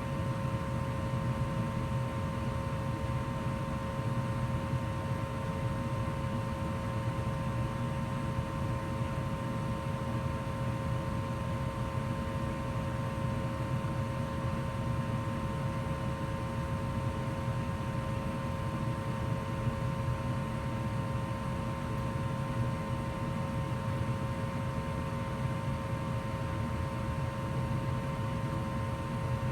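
2004 Goodman gas furnace running steadily in heat mode: an even rush of air and a low rumble, with a steady hum in two tones over it.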